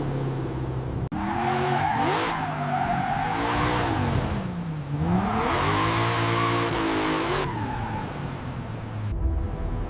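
A car engine revving up and down while its tires squeal, as in a drift or burnout. It starts abruptly about a second in and stops suddenly near the end.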